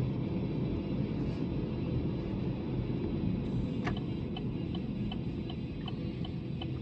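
Steady road and engine rumble inside a car's cabin. About four seconds in there is a click, and the turn-signal indicator starts ticking evenly, roughly three ticks a second.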